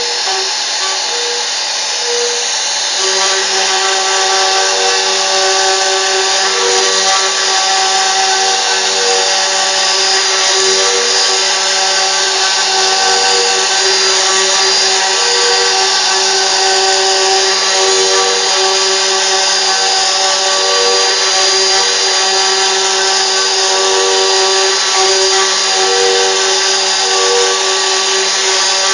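CNC router spindle running steadily as the machine cuts, a high whine over a dense hiss, with a short tone that comes and goes every second or two.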